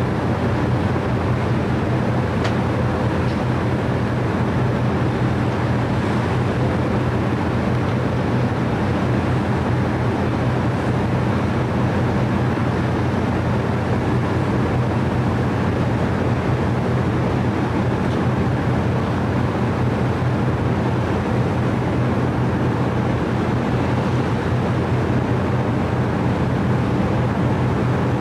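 Steady low engine drone under a constant rushing noise, unchanging throughout, as heard aboard a moving vehicle or vessel.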